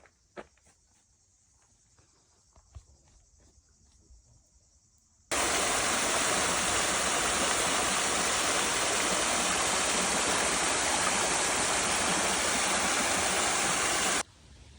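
A few faint clicks over quiet, then a loud, even rushing noise that cuts in abruptly about five seconds in and cuts off just as abruptly near the end.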